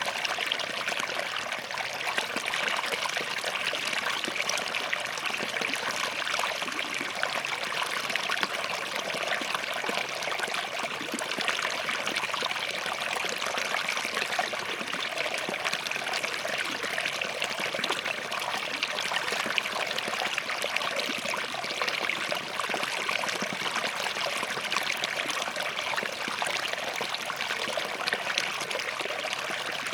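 Small forest stream flowing and trickling steadily over rocks, a continuous bright splashing babble.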